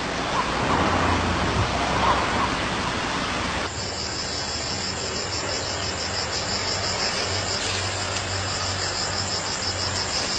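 Insects trilling steadily in a high, fast pulsing buzz over low background hum, after a sudden change from a noisier stretch with a few faint chirps about four seconds in.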